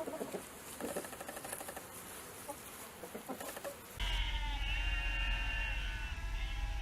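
Birdlike animal calls in two clips. First come soft short calls and clicks, typical of chickens. After a sudden cut about four seconds in, many high chirping and peeping calls sound together over a steady low rumble.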